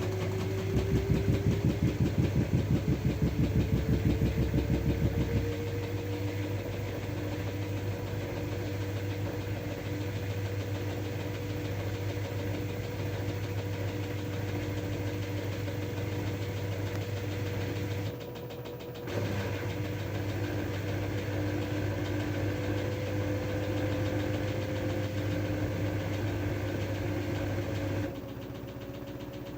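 LG F12A8ND front-loading washing machine with its drum motor running, a steady hum under a whine that rises slowly in pitch. It pulses rhythmically and more loudly for the first few seconds. The level drops briefly around two-thirds of the way in and again near the end, as the motor pauses.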